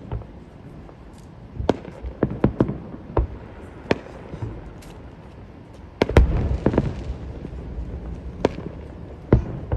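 Fireworks display: sharp bangs and booms at uneven intervals. The loudest comes about six seconds in and is followed by about a second of crackling rumble.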